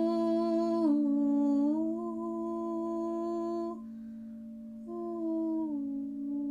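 Wordless vocal toning: a voice humming long held notes that step down and back up in pitch, breaking off for about a second in the middle, over the steady ringing tone of a singing bowl.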